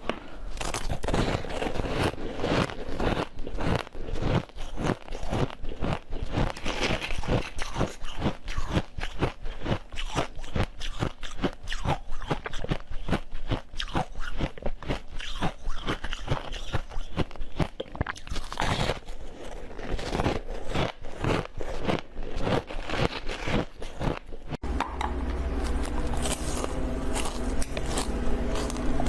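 Close-miked crunching, biting and chewing of frozen treats, a dense run of irregular crunches and crackles. About 25 seconds in the recording changes abruptly, and the chewing goes on over a steady low hum.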